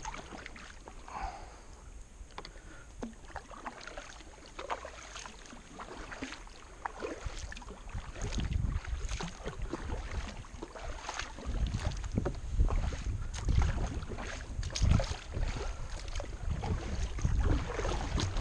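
Kayak paddle strokes splashing and knocking in quick succession as the kayak is paddled hard against a river current, with water noise. A low rumble grows louder about halfway through.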